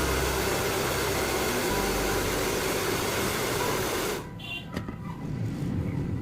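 Handheld hair dryer blowing, a steady rushing noise that cuts off suddenly about four seconds in.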